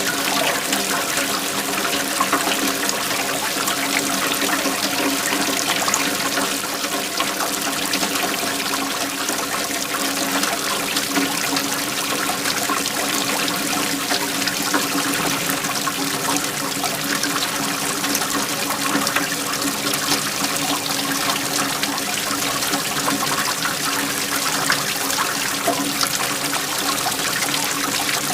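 Waterfall: flowing water splashing and rushing in an even, unbroken wash of sound.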